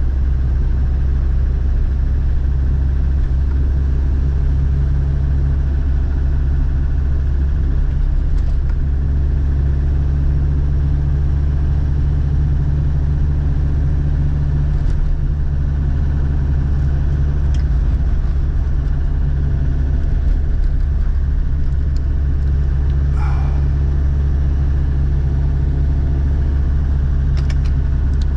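1999 Land Rover Defender TD5's five-cylinder turbodiesel engine running with a steady low rumble.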